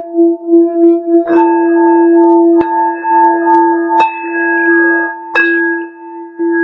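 Hand-held crystal singing bowl rimmed with a wand, giving a sustained ringing tone with higher overtones that pulses at first and then steadies. About a second in, and then every second and a half or so, there are sharp knocks that bring out brighter ringing overtones.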